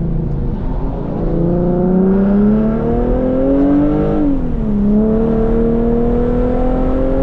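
Infiniti G37 Coupe's 3.7-litre VQ V6 through a full titanium Tomei exhaust, accelerating. The engine note climbs steadily, drops quickly about four seconds in as it shifts up, then climbs again.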